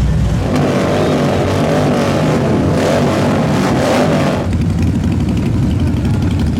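Motorcycle engines running, with a wavering rise and fall in pitch over the first few seconds, like revving.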